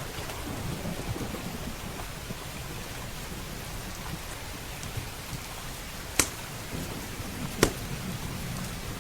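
Steady rain with low thunder rumbling, and two sharp pops from a crackling wood fire, about six seconds in and again a second and a half later, the second one louder.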